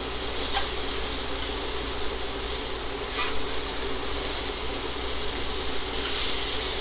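Scallops sizzling in hot avocado oil in a stainless steel pan, a steady frying hiss. The sizzle swells briefly a few times as the scallops are turned over with tongs, most clearly near the end.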